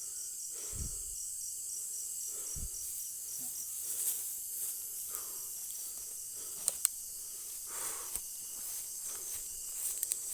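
Night insect chorus of crickets, a steady high-pitched trill with one insect pulsing rapidly through the first few seconds. A few soft low thuds are mixed in, and two sharp clicks come close together a little past the middle.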